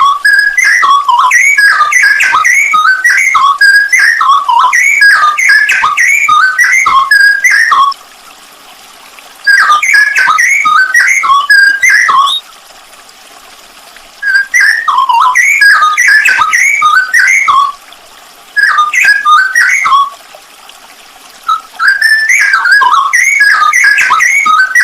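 Straw-headed bulbul (cucak rowo) singing loud, rapid phrases of rich whistled notes, broken by several pauses of a second or two.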